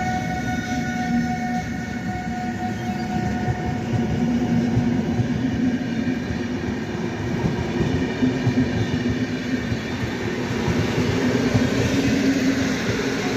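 Newag Griffin (EU160) electric locomotive pulling away with a passenger train: a steady rumble of the wheels and coaches on the track, with an electric whine from the traction drive that fades after about three seconds.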